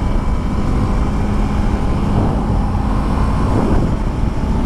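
Motorcycle riding at freeway speed, heard from the rider's helmet: heavy wind rush over a steady engine hum that fades about three and a half seconds in.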